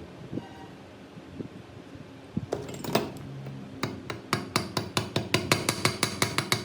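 Hammer striking metal: a couple of blows, then a rapid, even run of ringing taps, about five a second.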